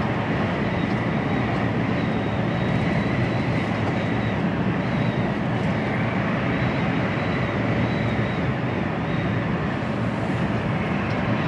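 Steady engine and road noise inside a moving HGV cab at motorway speed, with a faint high whine running through it.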